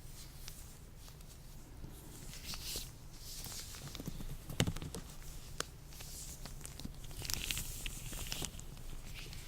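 Latex gloves rubbed and handled close to the microphone: bursts of squeaky, crinkly rustling with small snaps and clicks. The loudest is a sharp snap about four and a half seconds in.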